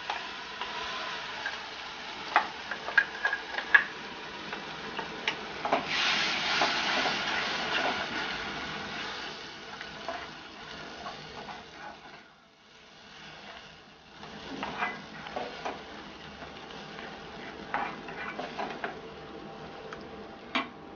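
Ground tomato-coconut masala paste sizzling in a hot pan of fried shallots and garlic as a spatula stirs it, with scattered clicks and knocks of the spatula against the pan. The sizzle is loudest about six seconds in and dies down briefly a little past halfway.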